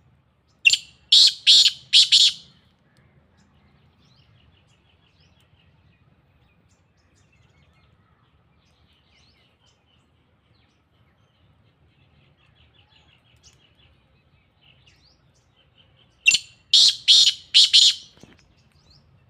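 Black francolin (kala teetar) calling twice, about fifteen seconds apart; each call is a loud, harsh run of four notes. Faint thin chirping lies between the two calls.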